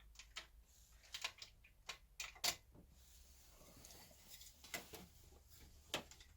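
Faint, irregular clicks and light knocks, about a dozen, loudest about two and a half seconds in and again near the end.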